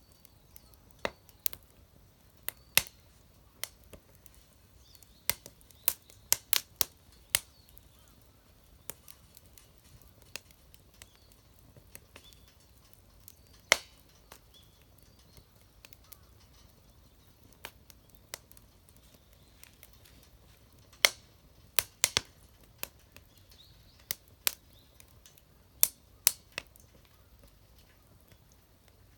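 Wood fire crackling: sharp pops and snaps at uneven intervals over a quiet background, a few of them much louder than the rest.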